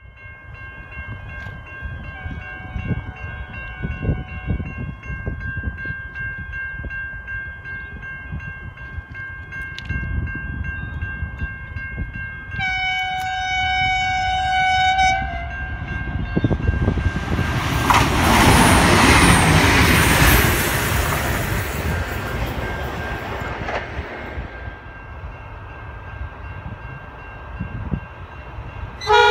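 A train approaching with a steady high tone over a low rumble, sounding its horn in one blast of about two seconds, then passing close by with a loud rush of wheel and rail noise that fades away. Near the end a freight locomotive's horn sounds briefly.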